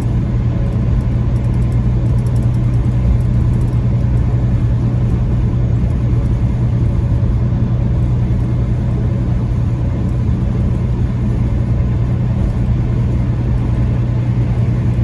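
Peterbilt 579 semi-truck heard from inside the cab, its diesel engine running at a steady cruise with a constant low hum and the rumble of tyres on a snowy highway.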